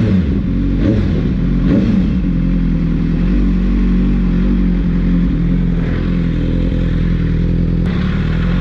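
BMW S1000RR's inline-four engine running steadily, with a few brief rises and falls in pitch in the first two seconds.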